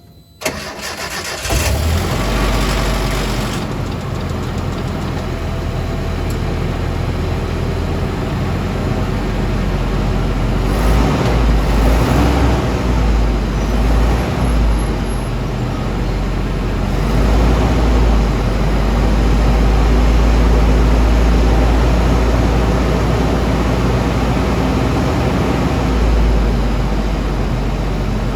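A 1995 Nissan D21 pickup starting about a second in and then running steadily, its driveshaft turning on a carrier bearing that the owner has found loose and blames for a whirring noise.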